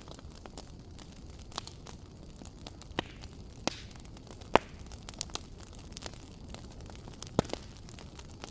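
Wood fire in a fireplace crackling: a steady low rush of burning with scattered sharp pops and snaps, a cluster of them around the middle and the loudest single pop about halfway.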